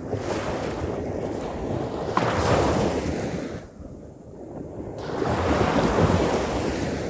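Ocean waves breaking on a beach: two surges of surf, the first about two seconds in and the second building from about five seconds in, each rising and falling away, with wind buffeting the microphone.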